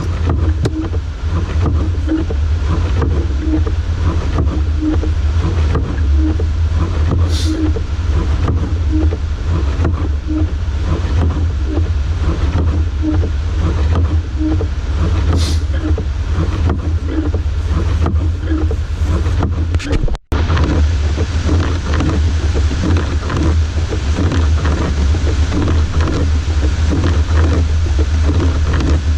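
Rescue truck driving through a blizzard, heard from inside the cab: a steady low drone of engine and road, with a soft regular beat about every two-thirds of a second.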